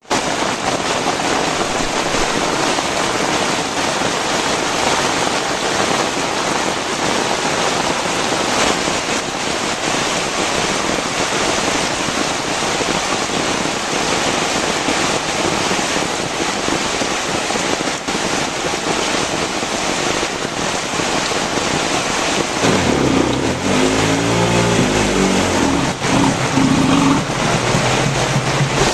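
Very heavy rain pouring down steadily. Near the end, a low pitched hum of changing pitch joins it for several seconds.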